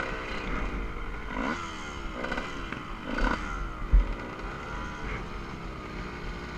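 Motocross dirt bike engine revving up and down repeatedly, with a sharp thump about four seconds in.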